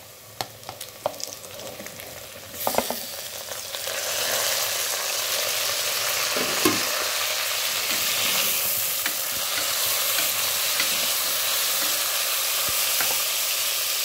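Chopped tomatoes and green chillies hitting hot oil and browned onions: a few knocks and clinks, then about two and a half seconds in a loud sizzle breaks out and settles into a steady frying sizzle.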